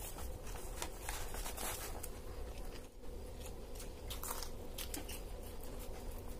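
Close-up eating sounds of people chewing egg rolls: irregular wet smacks and sharp clicks of chewing and biting, with some rustling of the paper wrapper around a roll, over a steady low hum.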